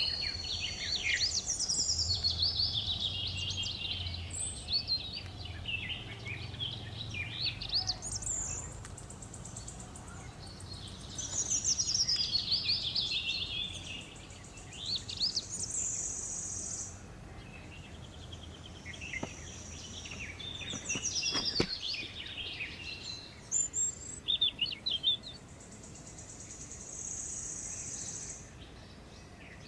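Several wild birds chirping and calling over one another, with quick whistled notes and a few high trills each held for about two seconds, over a faint low background hum.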